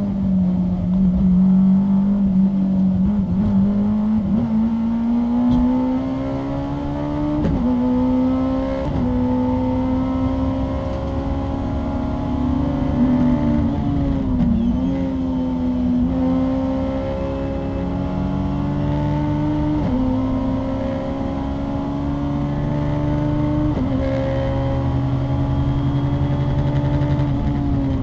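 Honda S2000 race car's 2-litre four-cylinder engine, heard from inside the cabin, pulling hard at full throttle. Its pitch climbs steadily in each gear and drops sharply at each upshift, several times over.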